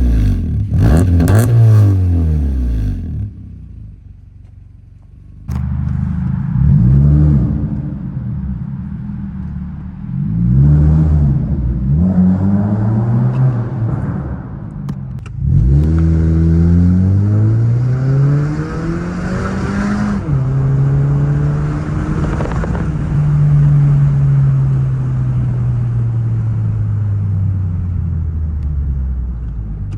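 2012 Honda Civic's 1.8-litre four-cylinder engine through an aftermarket eBay muffler exhaust, accelerating in several rising pulls. The engine note drops sharply at a shift about two-thirds of the way in, then falls slowly as the revs ease off.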